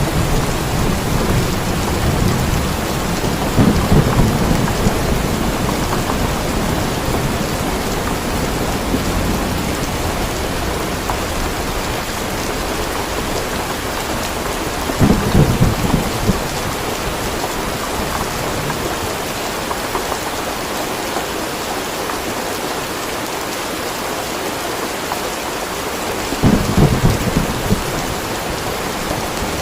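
Steady rain falling in a thunderstorm, with low rolls of thunder swelling up at the start, again around the middle, and once more near the end.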